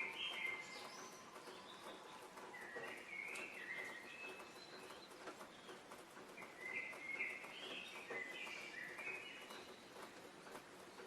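Small songbirds singing in short phrases of quick, stepped chirping notes, heard in several bursts over a faint steady woodland background.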